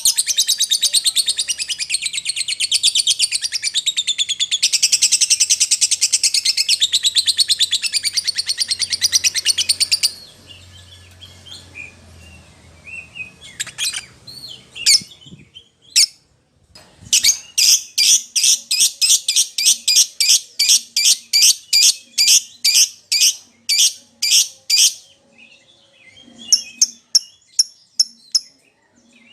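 Lovebird calling, of the kind used as a lure recording to call other lovebirds. It opens with about ten seconds of dense, high, rapid chattering, then a few scattered calls, then a run of loud sharp chirps at about two or three a second, ending in softer chirps.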